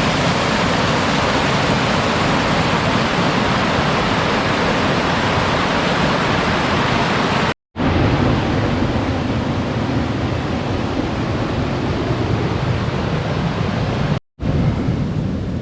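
Steady, loud rush of falling water from a mountain waterfall. It breaks off into silence for a moment twice, a little past halfway and near the end.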